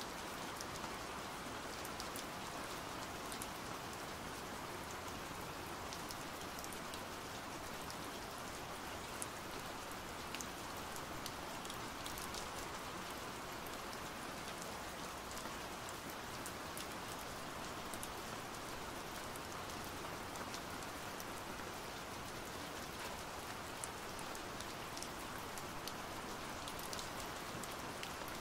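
Steady pouring rain: an even hiss with scattered sharp drop ticks.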